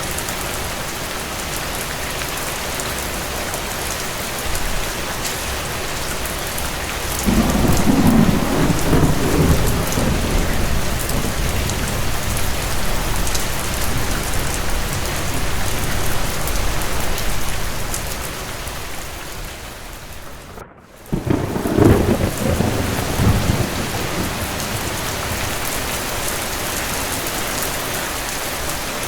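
Steady rain with thunder. A long, low rumble of thunder rolls in about a quarter of the way through and slowly fades. The sound then cuts out for a moment, and a second rumble of thunder follows.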